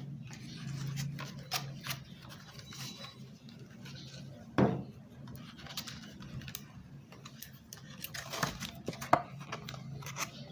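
Hands handling hard plastic packaging: scraping, rustling and scattered sharp clicks, with one louder knock about halfway through. A steady low hum runs underneath.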